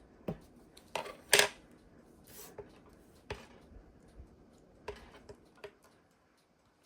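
Scattered light taps and clicks of rubber stamps and an ink pad being handled on a craft table, about eight in all, the loudest about a second and a half in, with a brief rustle midway.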